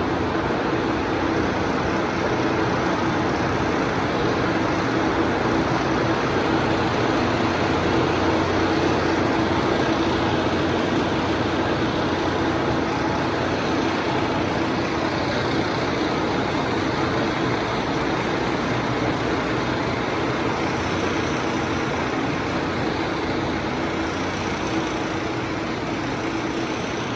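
Wire rope production machinery running steadily: a continuous mechanical din with a constant hum underneath.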